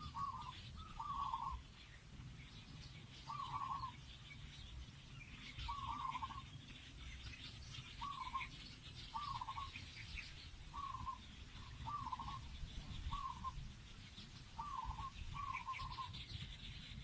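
A bird giving short repeated calls every one to two seconds, with fainter high chirps of other birds and a steady low rumble underneath.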